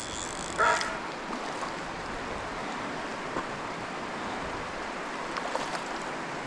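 Steady rushing of a river's current, with one brief louder sound about a second in.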